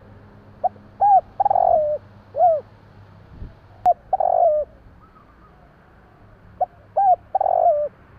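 Spotted dove cooing: three repeated phrases a couple of seconds apart, each a few short coos around a longer, rolling coo that falls in pitch at its end.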